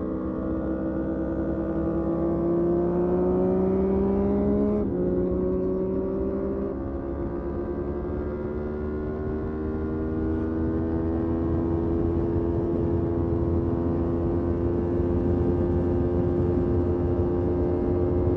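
Motorcycle engine under way: its pitch climbs for about five seconds, drops sharply with an upshift, then holds nearly steady at a constant speed, over a steady low rush of noise.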